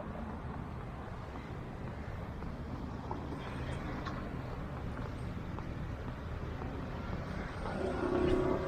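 Road traffic going by, a steady hum of engines and tyres, with one vehicle's engine growing louder near the end.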